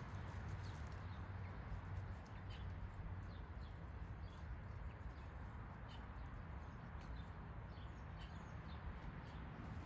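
Small backyard birds chirping: short, faint high chirps scattered through the whole stretch, over a steady low background rumble.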